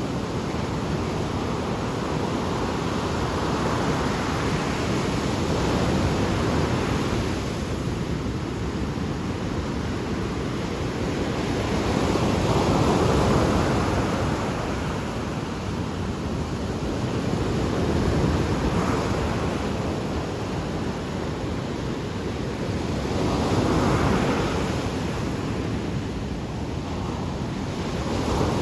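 Ocean surf: waves breaking and washing up the shore, the rush swelling and fading every five or six seconds.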